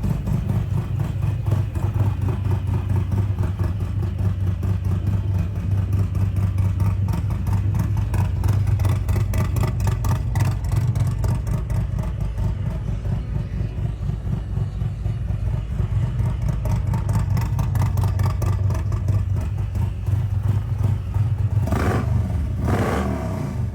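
Harley-Davidson Road Glide's Milwaukee-Eight V-twin engine running with a deep, rapid pulsing exhaust note. Two short blips of sound come near the end.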